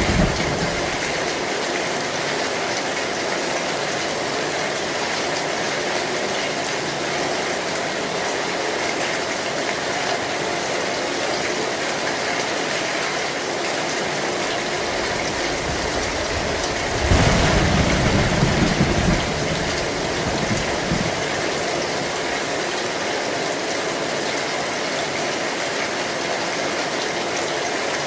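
Heavy rain falling steadily on a metal roof, an even hiss with no letup. A little past halfway a short low rumble of thunder swells up for about two seconds.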